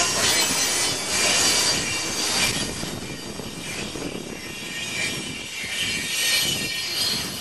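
Loaded coal train cars rolling past, steel wheels running on the rails with a continuous rumble and a high wheel squeal, the noise swelling and easing as cars go by.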